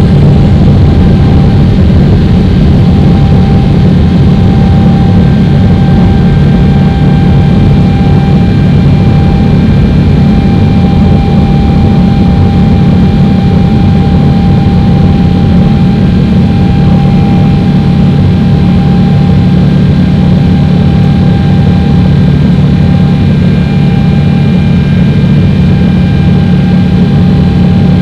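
A Boeing 777-300ER's GE90 jet engines heard from inside the cabin: a steady, loud low rumble with a faint, even whine above it.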